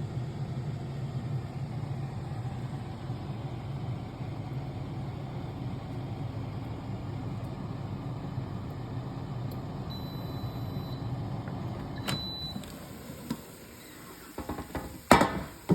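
Air fryer running with a steady fan hum. Two short high beeps sound about ten and twelve seconds in, then the fan winds down, and a sharp knock comes near the end.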